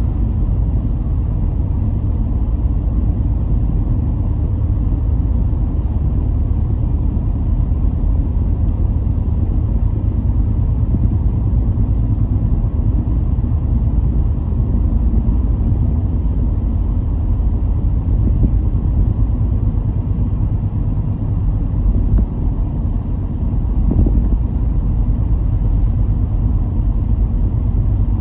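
A car driving: a steady low rumble of road and engine noise, with no distinct engine note or sudden events.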